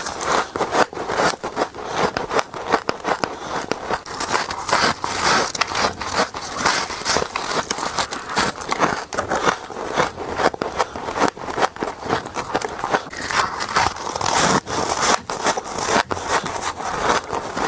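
Rapid, continuous crunching of frost being bitten and chewed, one sharp crackling crunch after another with no pauses.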